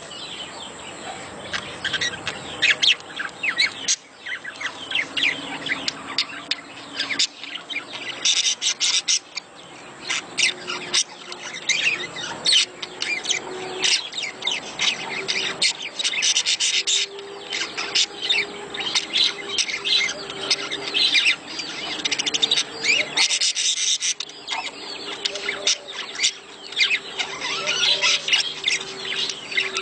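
A flock of budgerigars chattering: a dense, continuous mass of rapid, high chirps and warbles.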